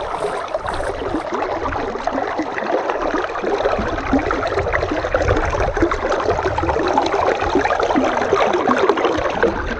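Babbling stream: water running in a steady, continuous rush.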